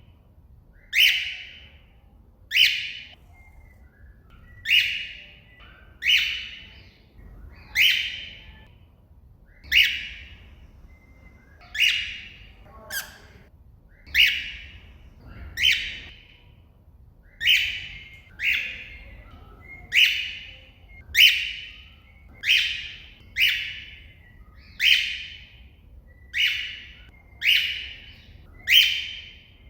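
A cockatiel giving its shrill contact call over and over, about twenty short calls roughly one every second and a half, calling out to another cockatiel.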